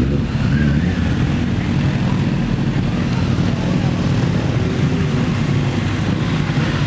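Motorcycle engines running close by, a steady low rumble, as bikes arrive and idle.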